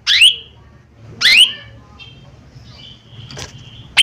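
Cucak ijo mini (small leafbird) calling: two loud rising whistles about a second apart, followed by softer, quieter warbling notes.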